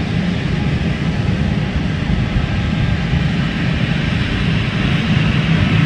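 Airbus A320 taxiing, its jet engines running at low power with a steady low rumble and hiss.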